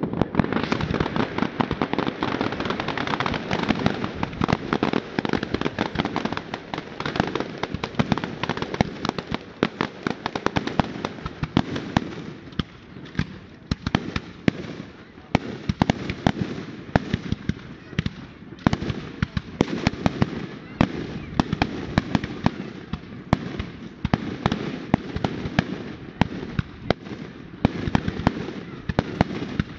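Fireworks going off: a dense, rapid run of bangs and crackles over a continuous rumble, thinning to more separate bangs about halfway through.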